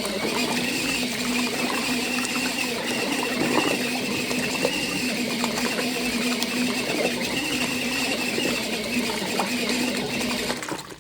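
Small motor of a mini foldable washing machine running steadily with a low hum and a high whine, washing dish towels in water, with small irregular splashes and knocks; it cuts off just before the end.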